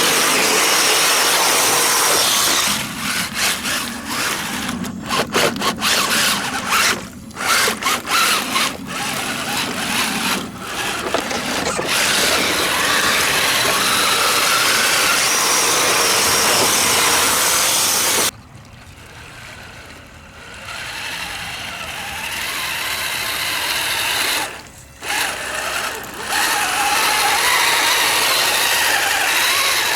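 Electric motor and geared drivetrain of an Axial SCX10 Dingo 1/10-scale RC truck on tracks, whining under throttle. It runs steadily for the first few seconds, then cuts in and out in short bursts, runs steadily again, drops off sharply about two-thirds through and builds back up, with one more brief let-off near the end.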